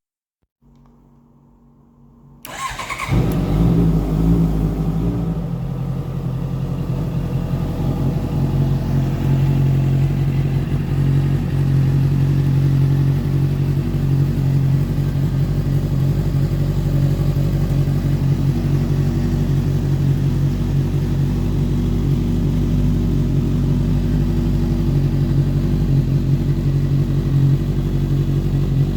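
Honda CB650F's 649 cc inline-four, fitted with a Delkevic aftermarket exhaust, starting up after a faint hum and settling into a steady idle.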